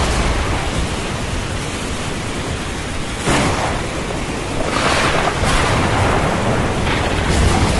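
Rain and ocean surf in a thunderstorm: a steady rushing hiss over a low rumble, swelling about three seconds in and again around five seconds.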